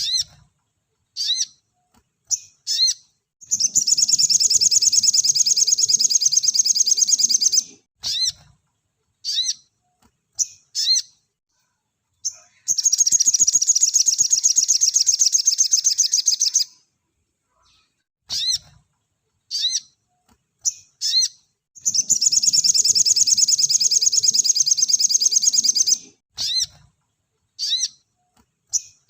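Sogon (sogok ontong) bird singing with clear, rapid-fire song. Short, high chirps come singly or in pairs between three long, dense trills of rapidly repeated notes, each lasting about four seconds.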